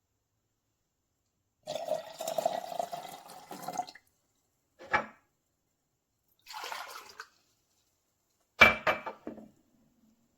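Amazon Basics 5-cup drip coffee maker brewing: several short stretches of water dripping and gurgling, each cut off abruptly, then a sharp knock with a brief ring near the end.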